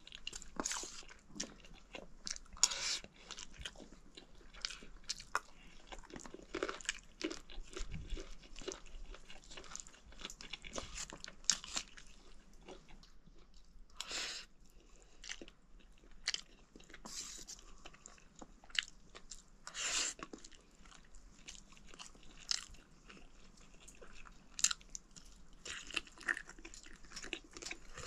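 A man chewing a mouthful of rice and chicken curry close to the microphone, with irregular short wet smacks and clicks of the mouth.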